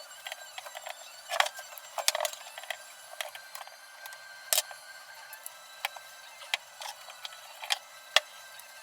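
Workshop handling noises: irregular sharp clicks and light metallic taps, about a dozen spread over several seconds, the loudest near the end.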